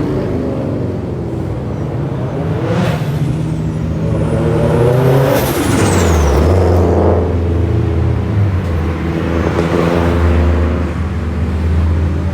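Car engines running as cars move past at low speed, their pitch rising and falling, with a deep engine rumble settling in from about halfway.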